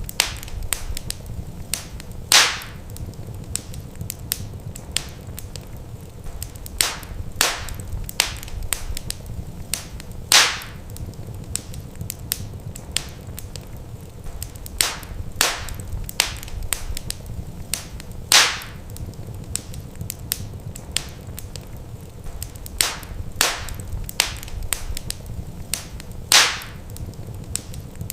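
Wood fire burning in a fireplace, crackling steadily with many small snaps and several loud, sharp pops spaced about eight seconds apart, over a steady low rumble of the flames.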